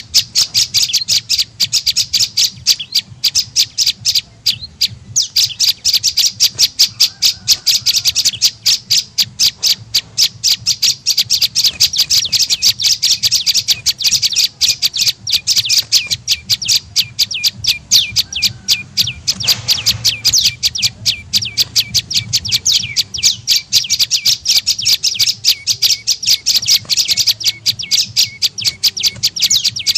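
Prenjak lumut call played as a bird-trapping lure: a fast, unbroken run of sharp high chirps, about five a second, with one brief pause a few seconds in. A faint low hum lies underneath.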